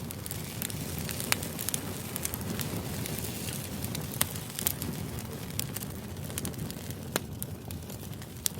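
Crackling fire ambience: a steady low rumble with irregular sharp pops and crackles scattered throughout.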